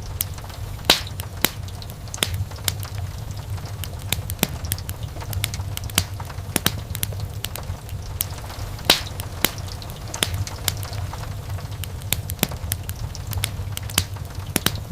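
Wood fire burning, crackling with irregular sharp pops over a steady low rumble; the loudest pops fall about a second in and about nine seconds in.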